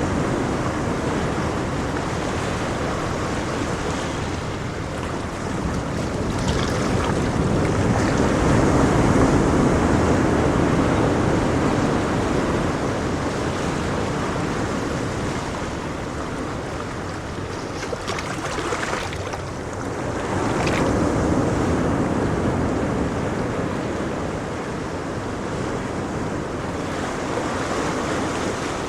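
Ocean waves washing on a shore, a steady rush of surf that swells and recedes slowly, with louder surges about eight seconds in and again past twenty seconds.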